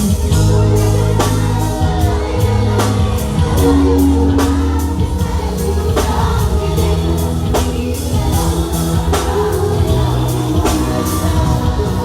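Live band music: a steady drum beat over a held bass line, with a singing voice.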